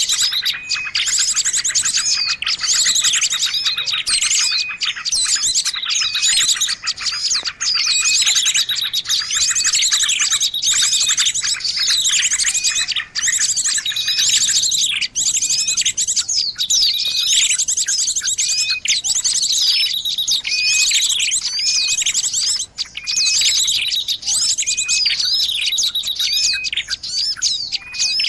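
Bird-lure recording of many small birds chirping and trilling at once: a dense, unbroken, noisy chatter of high calls, played to draw small birds in.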